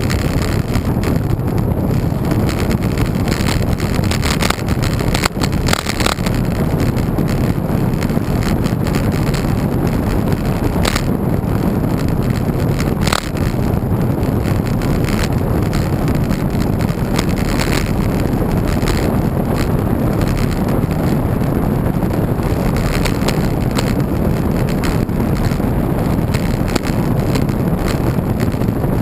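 Wind rushing over the microphone while riding a road bike, a steady low rumble, with a few sharp clicks or rattles about five, six, eleven and thirteen seconds in.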